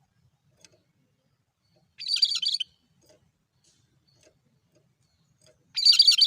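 Cucak kerinci calling twice, a short, rapid, high chattering phrase about two seconds in and the same phrase again near the end, each lasting well under a second.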